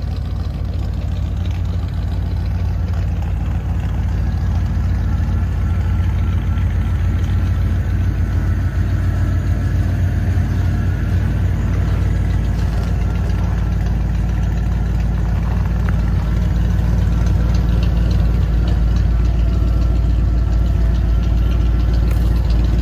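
Ford 302 V8 with dual straight pipes idling on a cold start in deep cold, a steady low exhaust rumble that grows slowly louder.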